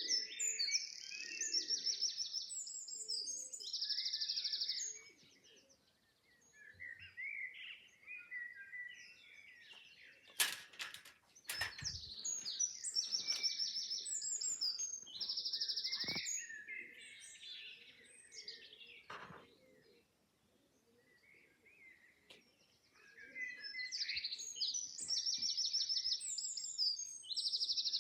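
Dawn chorus of wild songbirds: bouts of loud, rapid trilling phrases and chirps, with quieter gaps between. A few sharp knocks sound about halfway through.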